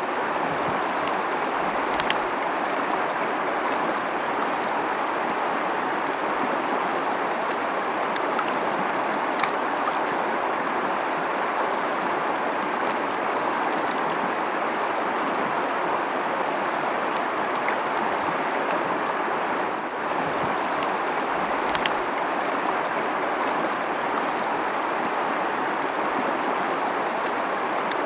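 Fast-flowing river rushing over rocks, a steady even rush of water with small splashes and clicks scattered through it.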